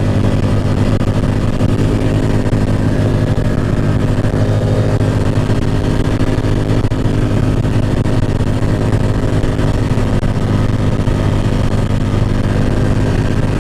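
Off-road side-by-side's engine running at a steady pace, heard from on board the vehicle, with an even engine note that does not rev up or down.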